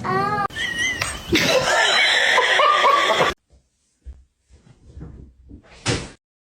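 People laughing loudly for about three seconds, then stopping abruptly. After that come a few faint scattered sounds and one short, sharp knock near the end.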